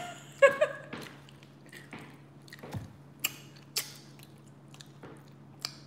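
Skittles being chewed close to the microphone: soft wet mouth sounds with a few sharp clicks, the loudest about half a second in and others around three to four seconds in and near the end.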